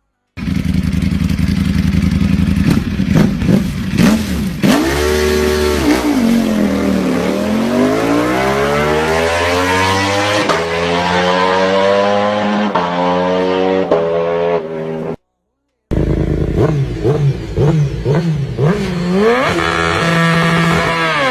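Superbike engines revving, in two clips split by a short silent cut. The first holds a long fall in pitch and climb back up; the second holds a string of quick throttle blips, then a rising rev near the end.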